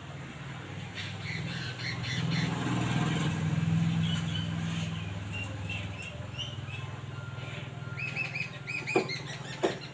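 Small birds chirping in short, scattered calls, turning into a quick run of repeated chirps near the end, over a steady low hum. Two sharp knocks sound near the end.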